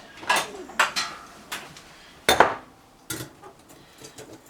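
Metal bicycle tools clinking and clanking, about six sharp knocks: a chain whip and cassette tool being handled on the rear wheel. The loudest clank comes a little over two seconds in.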